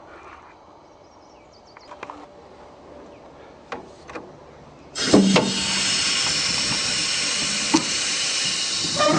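Faint knocks and clicks, then, about five seconds in, a loud steady hiss starts suddenly and runs for about four seconds.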